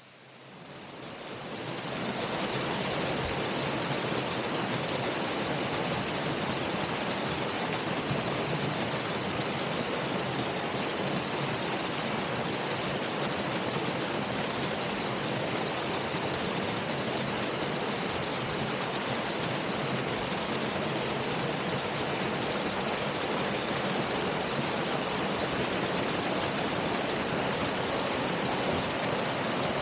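Waterfall: a steady, even rush of falling water that fades in over about the first two seconds.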